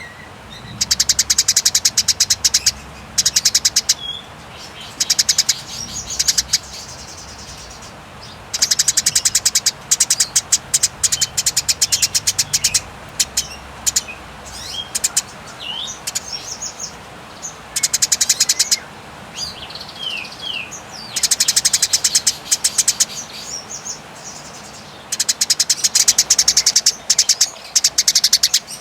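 Eurasian tree sparrow giving its fighting chatter: long, very fast, high rattling trills of one to three seconds each, repeated with short pauses, and a few single chirps in the gaps.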